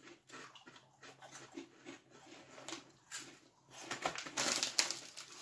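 Chewing of crisp salted puff pastry sticks: faint crunching, small crackles and mouth noises. About four seconds in comes a louder crackling burst lasting about a second.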